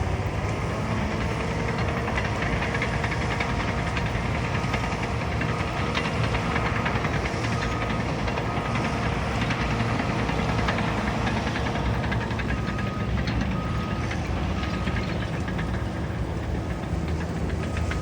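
Caterpillar bulldozer's diesel engine running steadily under load as it works rubble, with a backup alarm beeping about once a second in some stretches, most plainly near the end.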